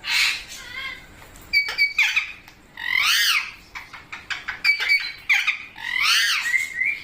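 Pet parrot giving a run of loud, harsh calls and shorter chirps, several of the calls rising and then falling in pitch.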